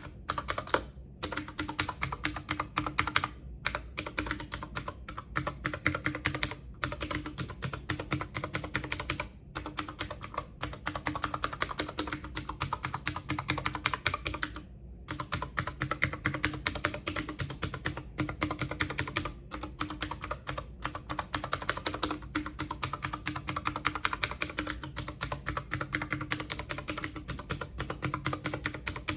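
Fast, continuous typing on a computer keyboard: a dense run of clicking keystrokes, broken by a few brief pauses.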